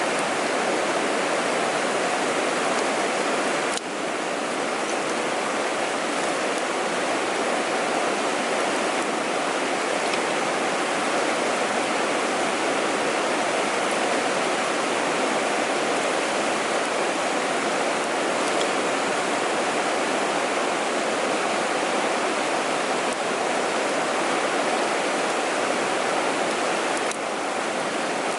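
Mountain stream water rushing over rocks, a steady dense rush that drops slightly in level about four seconds in and again near the end.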